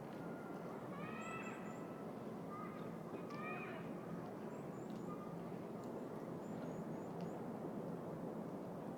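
Outdoor city-park ambience: a steady hum of distant city noise, with a bird's harsh call heard twice in the first half and thin, high chirps of small birds scattered through.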